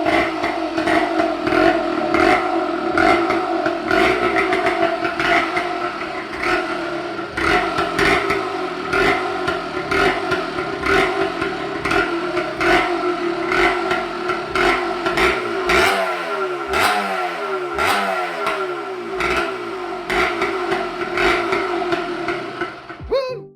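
1987 Yamaha DT125LC's single-cylinder two-stroke engine running steadily, with a few throttle blips, the revs rising and falling, in the last third.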